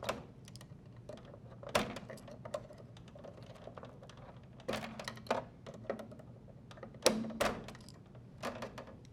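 Wire spade connectors being pulled off the terminals of a dryer's temperature switch: several scattered light clicks and snaps of terminals and wires being handled.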